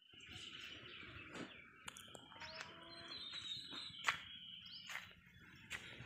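Faint outdoor background of birds chirping, broken by a few sharp clicks.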